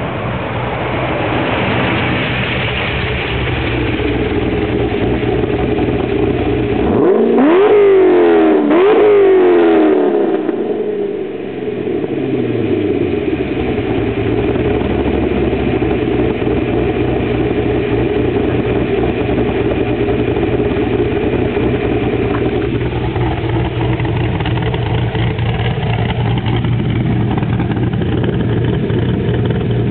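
2007 HSV R8 Clubsport's 6.0-litre V8, fitted with an aftermarket cam, extractors and a 3-inch exhaust. The engine note builds, rises sharply in pitch twice about eight seconds in, then settles into a steady idle.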